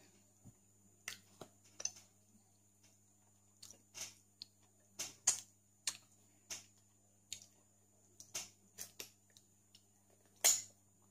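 Wet lip smacks and chewing sounds of someone eating soft, sticky durian flesh close to the microphone: a dozen or so short, irregular smacks.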